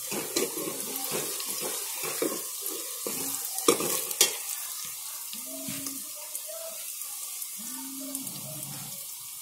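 Sliced onions and whole spices sizzling in hot oil in an aluminium pot, stirred with a metal ladle that scrapes and clinks against the pot, with two sharp clinks about four seconds in.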